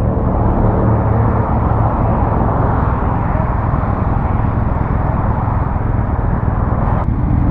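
Motorcycle moving at speed: a steady rush of wind and road noise over the microphone, with a low engine hum underneath.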